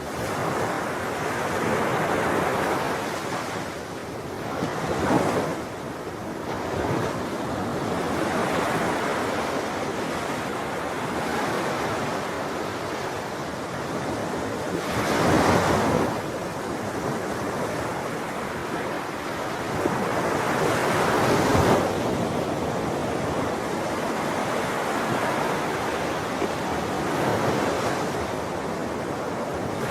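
Sea waves breaking and washing ashore in a continuous surf, with louder breakers swelling a few times, around 5, 15 and 21 seconds in.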